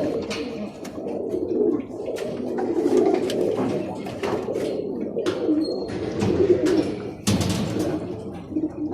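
Birmingham Roller pigeons cooing in a loft, a continuous low murmur of many birds. Scattered short knocks and rustles sound through it, the loudest about seven seconds in.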